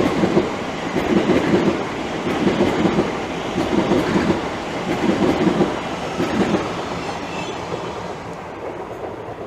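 Class 345 Aventra electric multiple unit passing through, its wheels clacking over rail joints in repeated groups about once a second, fading away near the end as the train clears.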